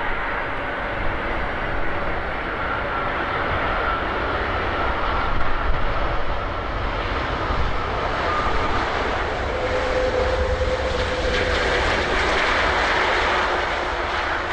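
Jet airliner engines on approach to land, most likely an Airbus A330-300's Rolls-Royce Trent 700 turbofans: a steady rushing noise with a faint whine, growing louder over the second half.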